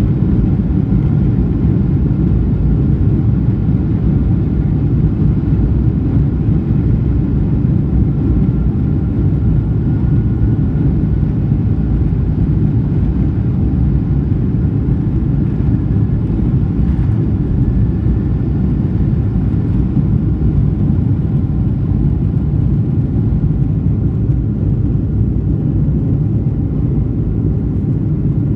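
Jet airliner heard from inside the cabin during takeoff: a steady, loud, low rumble of engines and airflow, with faint whining tones above it.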